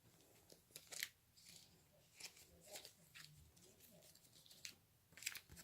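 Faint, scattered clicks and crinkles of Pokémon trading cards and their packaging being handled.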